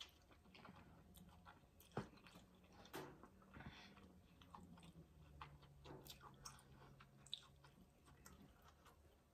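Quiet chewing of a bite of corn on the cob, with scattered crunches and sharp mouth clicks, the loudest about two seconds in. A faint steady low hum runs underneath.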